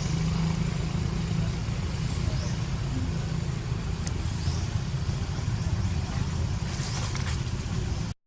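Steady low rumble of vehicle engines or road traffic, with a few faint, short high chirps over it; the sound cuts off abruptly just before the end.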